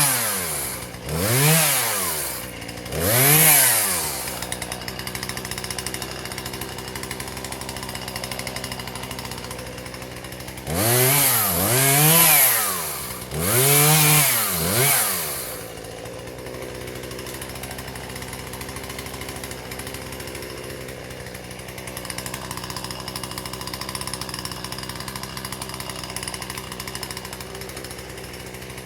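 Husqvarna 120 two-stroke chainsaw revving up in short bursts and dropping back to idle, a few revs near the start and a cluster of four in the middle, idling steadily the rest of the time.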